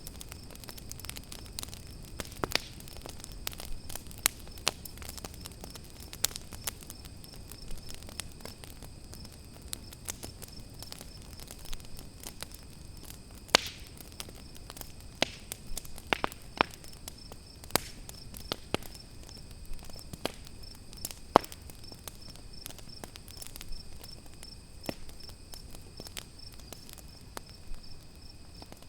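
Campfire crackling: irregular sharp pops and snaps, a few much louder than the rest, over a soft low hiss. Crickets chirp steadily behind it in a fast, even, high-pitched trill.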